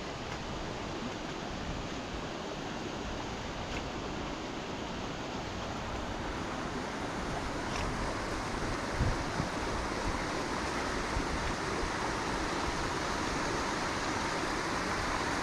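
A river in spate, swollen with rainwater running off the hillside, giving a steady rushing of fast-flowing water that grows a little louder partway through. A single soft thump comes about nine seconds in.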